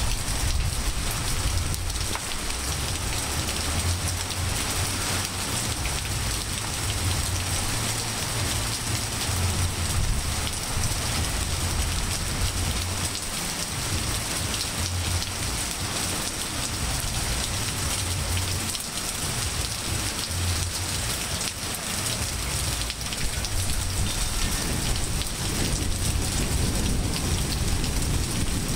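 Steady rain falling on grass, trees and pavement, an even hiss, with a patchy low rumble underneath that comes and goes.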